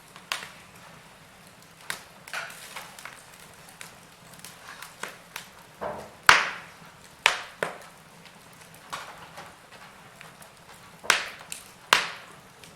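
Wood fire in a fireplace crackling, with irregular sharp pops of varying strength over a faint steady hiss; the loudest pops come about six and seven seconds in and twice near the end.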